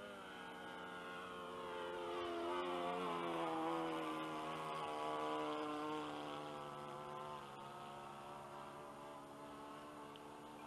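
Seagull Skyraider RC model airplane's motor heard in flight, making a pass. Its pitch drops as it goes by a couple of seconds in, then the sound fades to a steadier, quieter drone.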